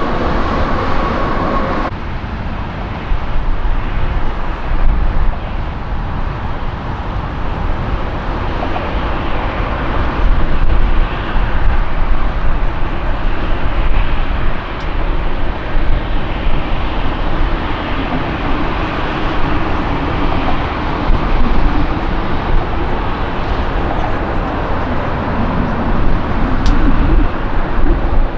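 Jet airliner engines running loudly as the aircraft takes off or lands, a dense rush of noise with a deep rumble that swells and wavers. A high steady whine from the engines cuts off abruptly about two seconds in.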